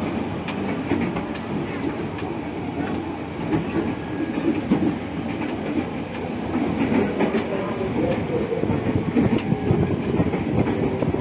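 Running noise of a 205 series electric commuter train heard from inside the car: a continuous rumble of wheels on rail with irregular clatter over the rail joints.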